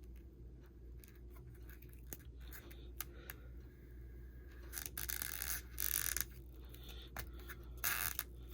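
Adhesive pull-tab strip being peeled slowly out from under an iPhone 6 battery: faint scraping and tearing with scattered small clicks, a little louder about five to six seconds in and again near the end, over a low steady hum.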